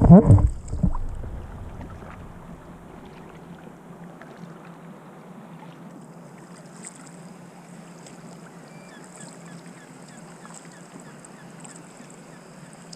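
Faint, steady open-water ambience heard from a small paddled boat: an even hiss of wind and water with a low steady hum underneath, after a voice in the first second.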